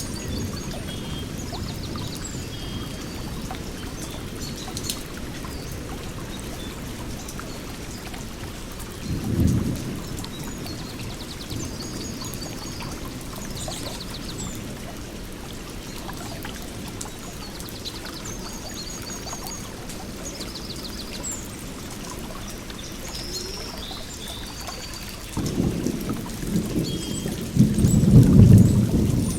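Steady low rush of water with small birds chirping and trilling over it. A deep low rumble swells about nine seconds in, and a longer, louder one builds over the last few seconds.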